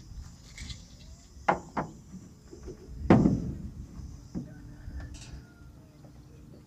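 A few sharp knocks and clunks, the loudest about three seconds in, over a steady high insect drone.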